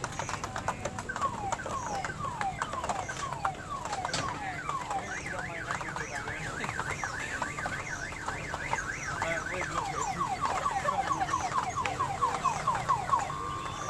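Electronic siren-like alarm cycling through its patterns: a run of repeated falling sweeps, then a fast up-and-down warble, then quicker falling sweeps, over a steady background din.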